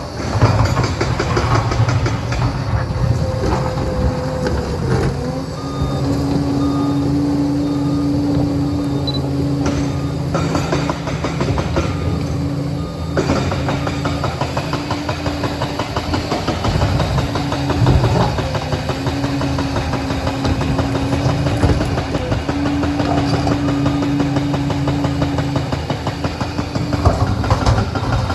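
Liebherr PR 746 crawler dozer at work: its diesel engine running under varying load with a rapid clatter from the tracks, and a steady whine that comes and goes.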